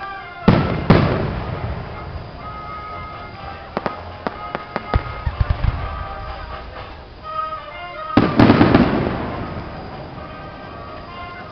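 Fireworks shells bursting: two loud booms about half a second in, a run of sharp crackling pops in the middle, and another big boom about eight seconds in, with music playing underneath.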